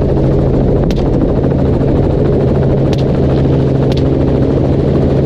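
Helicopter in flight, a steady loud drone of engine and rotor, with a few faint sharp clicks about one, three and four seconds in.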